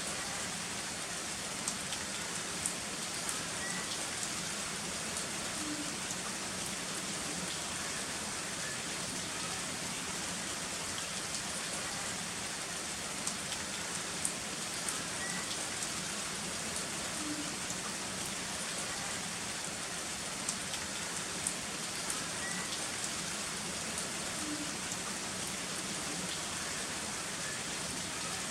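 Heavy rain falling steadily, with scattered sharper clicks of drops striking close by.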